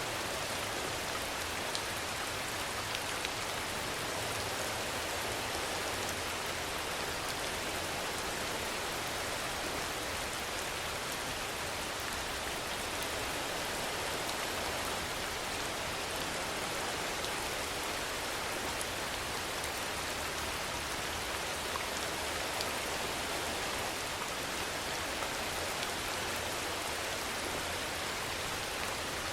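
Steady rain falling: an even hiss with no rise or fall, and a few sharper drop ticks here and there.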